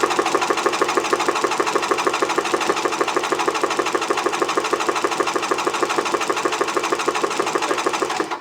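1995 Polaris SL 750 jet ski's three-cylinder two-stroke engine spun over on its electric starter for a compression test, a rapid, even pulsing that stops suddenly near the end.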